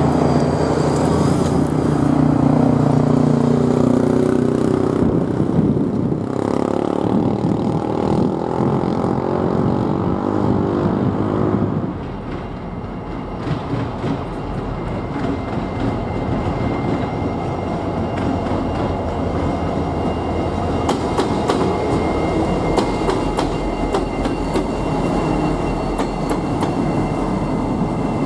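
Freight trains passing close by: a double-stack container train rolling past with a deep rumble whose pitch slides downward, then, about halfway through, a Norfolk Southern diesel-hauled train approaching and passing, with a faint high steady tone and a run of wheel clicks near the end.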